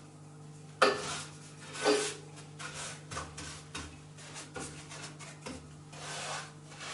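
Ash being scraped out of a wood-burning fireplace's firebox: a sharp knock about a second in, then scattered scrapes and small clicks.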